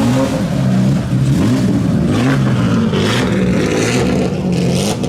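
Rally car engine revving, its pitch climbing and dropping again several times in quick blips.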